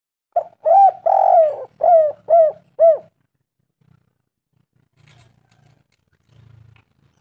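Spotted dove (tekukur) cooing one song phrase of about six notes over some two and a half seconds, the second note drawn out longer than the others, each note falling away at its end.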